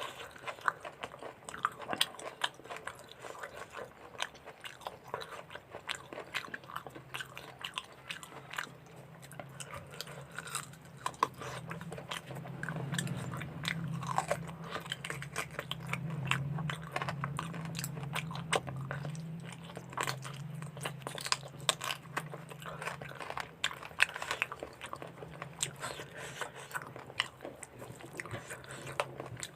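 Close-up eating sounds: a person chewing and biting into mutton curry with rice, with many short wet smacks and crunchy bites. A low hum runs through the middle stretch.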